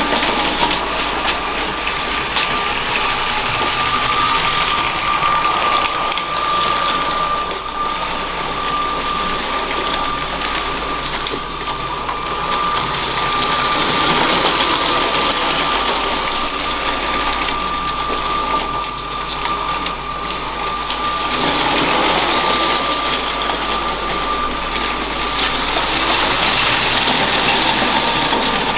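A LEGO train's small electric motor runs with a steady high whine while its wheels rattle along the plastic track. The sound swells and fades every few seconds as the train comes near and moves away.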